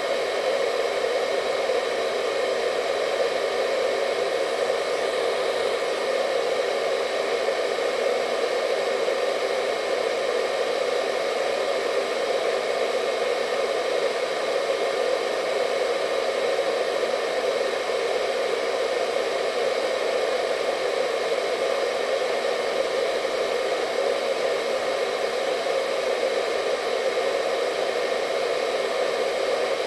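Hair dryer running steadily: an even airy rush strongest in the low-middle range, with a faint steady whine from its motor and fan.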